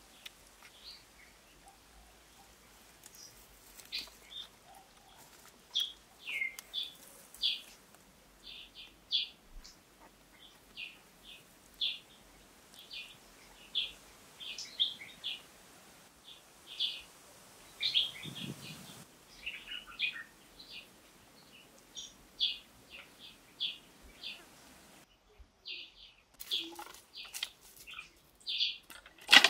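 Birds chirping: short, high chirps repeated about once or twice a second, with one sharp knock at the very end.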